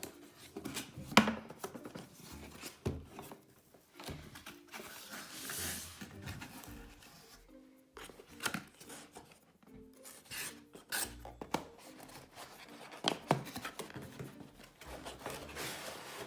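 A knife cutting the seal stickers on a cardboard product box, then the box being opened: cardboard scraping and rubbing, with many sharp clicks and knocks and a rough tearing hiss about five seconds in. Quiet background music plays underneath.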